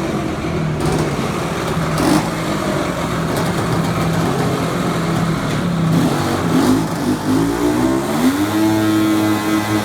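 Engine running steadily under noise, then revving up about two-thirds of the way through and holding at a higher speed.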